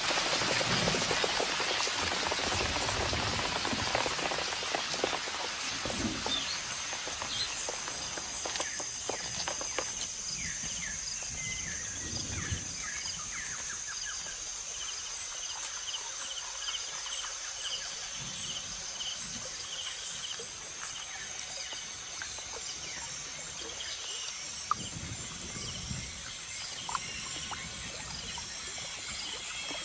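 Tropical rainforest rain falling, heavy at first and easing off over about ten seconds. It gives way to rainforest animal calls: a steady high buzzing and rows of rapid, repeated chirps.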